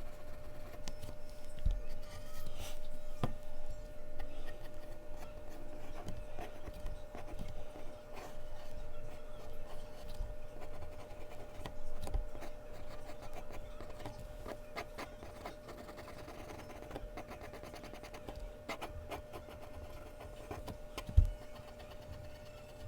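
Mechanical pencil scratching and shading on Bristol paper in quick small strokes, over a faint steady hum, with a single sharp thump about 21 seconds in.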